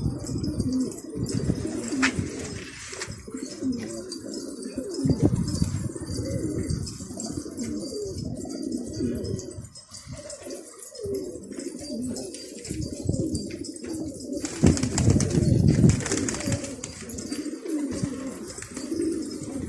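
Many domestic pigeons cooing together in overlapping low calls.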